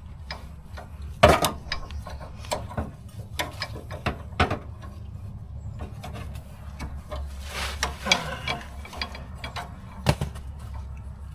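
Hand tools working under a car: a socket ratchet clicking and metal clanking and knocking at irregular intervals while a fuel-tank strap bolt is loosened, with sharper knocks about a second in and near the end.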